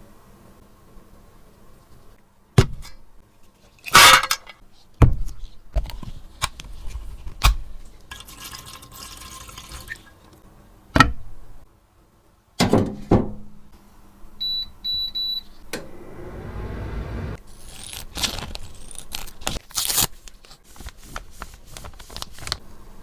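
Hands handling makeup compacts and tools: a run of sharp clicks, taps and knocks with brief scraping and rustling. A few short high electronic beeps come partway through, followed by a couple of seconds of low rushing noise.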